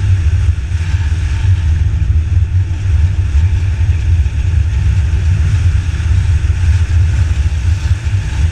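Wind buffeting the microphone on a motorcycle riding at speed: a loud, steady, churning low rumble over road and engine noise.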